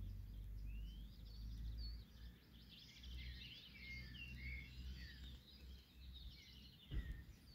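Faint birdsong: several songbirds chirping and trilling over a low rumble, with a short thump about seven seconds in.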